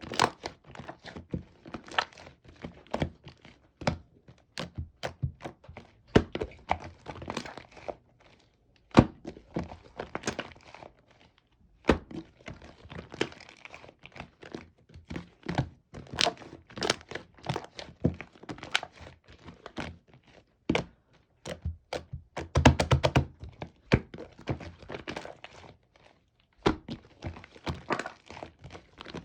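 Hands squishing, pressing and poking a light-pink slime, giving an irregular run of sharp clicks and pops with a few short pauses.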